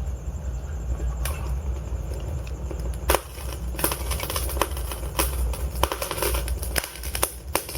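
Wood fire burning in a fireplace: a low steady rumble of the flames with sharp crackles and pops from the logs, few at first and coming thick and fast from about three seconds in.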